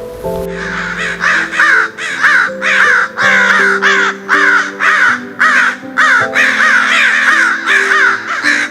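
A group of crows cawing over and over, about two harsh falling caws a second with calls overlapping, over background music of slow held low notes.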